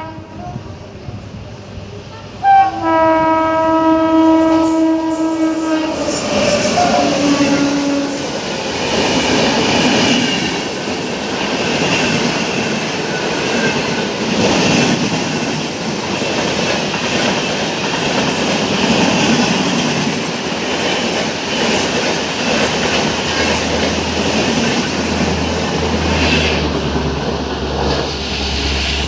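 WAP7 electric locomotive sounding a long horn blast about three seconds in, its pitch dropping as the engine passes. Then comes the steady rush and wheel clatter of the express coaches running through at speed.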